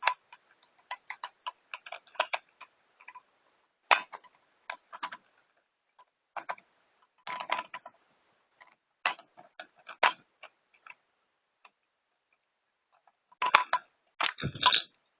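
Plastic Rubik's cube being twisted by hand, its layers clicking and clacking in short irregular runs, with a louder clatter near the end.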